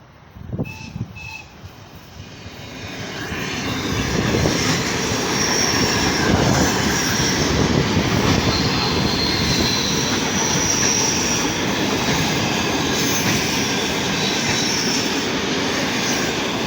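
ED4M electric multiple unit passing close by: its rumble and wheel noise build over the first few seconds, then hold steady and loud, with high wheel squeal coming and going. Two short high tones sound about half a second and a second in.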